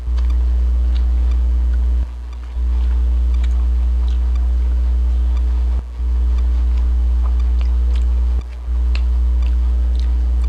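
A person chewing food close to a clip-on microphone, with small wet mouth clicks, over a loud steady low electrical hum that drops out briefly about two, six and eight and a half seconds in.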